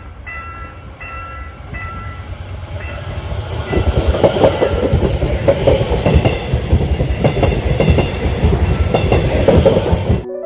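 Level-crossing warning bell ringing in short repeated tones about twice a second, then a passenger train passing close by from about three and a half seconds in, a loud rumble with the clatter of wheels over the rails. The sound cuts off suddenly just before the end.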